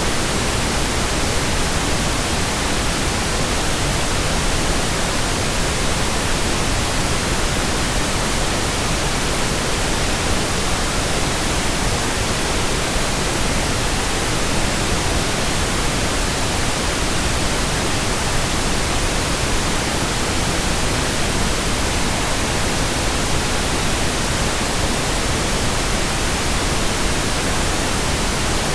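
Steady, unbroken white noise: an even hiss spread across the whole frequency range at a constant level, with no changes or other sounds.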